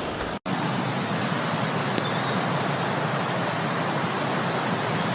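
Steady, even rush of flood water pouring over waterfalls under a bridge, a continuous rumble. It is broken by a brief dropout about half a second in.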